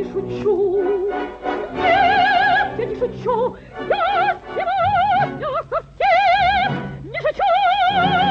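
Soprano singing a wordless operatic passage over orchestral accompaniment: several long high notes with wide vibrato, each reached by a quick upward run.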